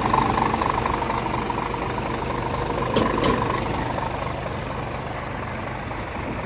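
Scania R410 truck's inline-six diesel idling steadily, gradually growing quieter. Two short clicks about three seconds in.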